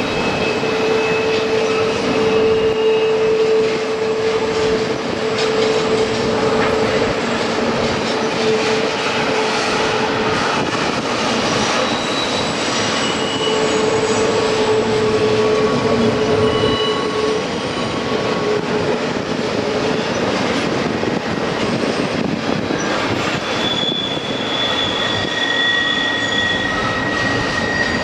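A train running on rails: a steady loud rumble, with drawn-out whining tones from the wheels coming and going, a lower one through the first half and higher ones near the end.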